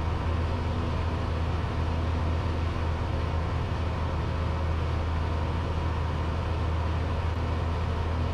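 Cessna 172's piston engine and propeller droning steadily inside the cabin in flight: a strong low hum over an even rush of air.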